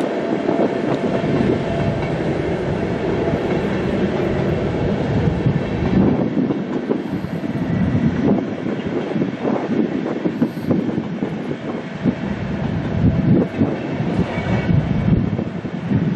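Electric Intercity train, a DB class 101 locomotive hauling its coaches, rolling past: a steady rumble of wheels on the rails, broken by many short irregular knocks.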